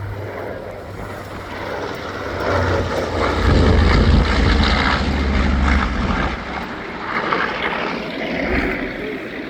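Twin radial engines of B-25 Mitchell bombers passing by in a flypast: a propeller drone that swells to its loudest about three to six seconds in, then fades.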